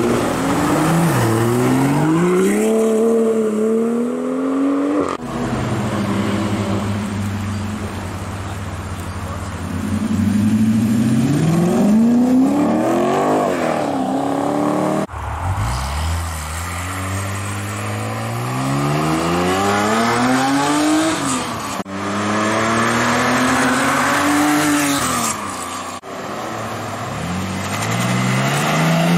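Sports cars accelerating hard away one after another, their engines revving up and dropping back at each gear change. Among them are a BMW M2, the V8 of a Lexus IS F and a BMW M3.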